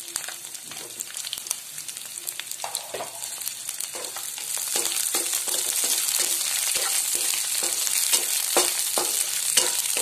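Garlic cloves, ginger and green chillies sizzling in hot oil in a nonstick pan. The sizzle grows louder about halfway through, and a wooden spatula scrapes the pan as they are stirred.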